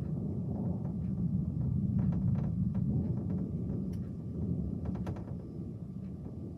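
Low rolling thunder rumble that swells about two seconds in and then slowly fades, with a few faint clicks over it.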